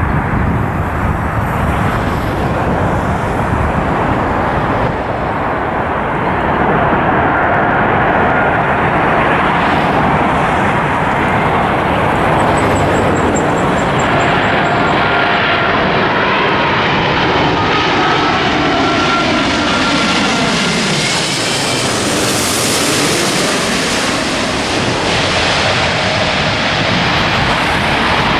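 Jet airliner's engines passing low overhead: a loud, steady rush of engine noise with a thin whine, building to its peak about three quarters of the way in and sweeping down in pitch as the aircraft goes by.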